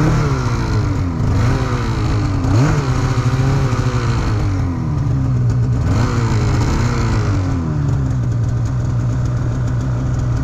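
Polaris 9R snowmobile's two-stroke engine revving up and down over and over as the throttle is worked, then running at a steady pitch from about eight seconds in.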